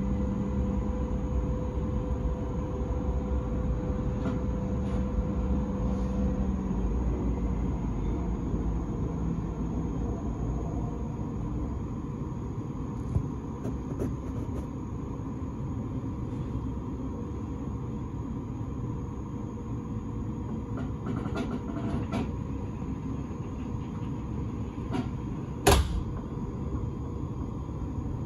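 Vienna S-Bahn train standing at a station, heard from inside: a steady low rumble with a humming tone that fades out after several seconds. The rumble eases later on, with scattered light clicks and one sharp clunk about 26 seconds in.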